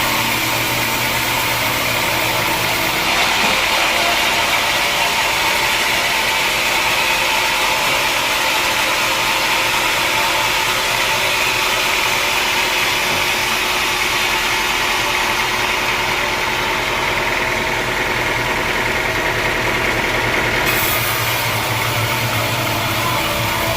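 Sawmill machinery running steadily: a continuous engine-driven mechanical noise whose tone shifts about three seconds in and shifts back near the end.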